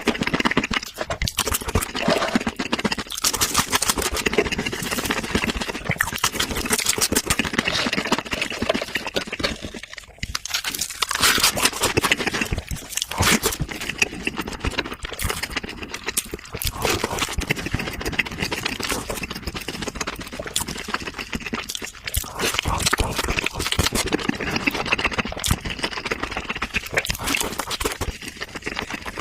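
Close-miked chewing and mouth sounds of a person eating, a dense run of clicks with a few brief pauses.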